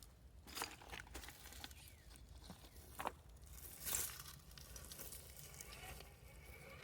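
Faint, scattered crunches and clicks of dirt and small rocks being pressed and shifted, a few of them a little louder than the rest.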